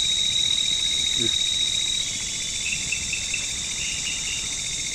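Night chorus of forest insects: a steady high-pitched whine over a fast pulsing trill. The whine drops slightly about two seconds in, and a few short chirps come in around the middle.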